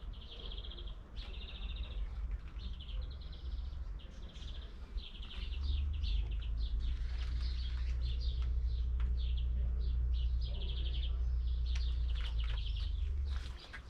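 Small songbirds singing, with rapid high trills and chirps repeated throughout. Under them is a low rumble that swells about five and a half seconds in and drops away shortly before the end.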